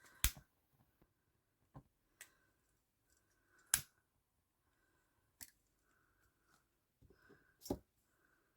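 About six sharp clicks at uneven intervals from craft hand tools working on cut grosgrain ribbon ends; the loudest come about a third of the way in and near the end.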